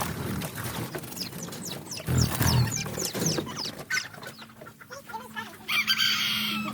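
Chickens clucking and calling, many short sharp calls in the first half, then a louder harsh squawk near the end.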